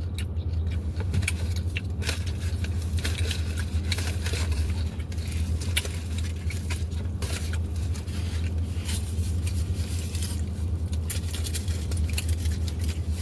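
Close-up eating sounds: irregular crunching, chewing and food-handling clicks as tacos are eaten, over a steady low hum.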